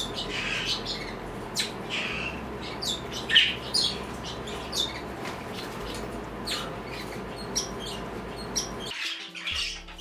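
Pet birds chirping and squawking in short, sharp high calls, roughly two a second. Music with held notes comes in near the end.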